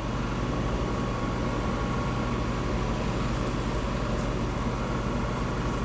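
Steady machine hum with an even hiss and a faint constant whine, unchanging throughout.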